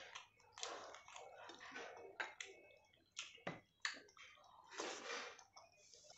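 Close-miked eating of rice and curry: irregular wet chewing and mouth smacks, with several sharp clicks.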